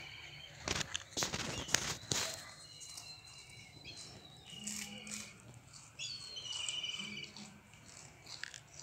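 Small birds chirping, with short repeated warbling trills. Several sharp knocks come in the first couple of seconds.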